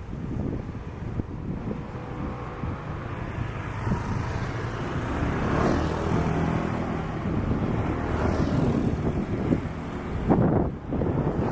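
Low engine rumble that swells through the middle and eases toward the end, with wind buffeting the microphone.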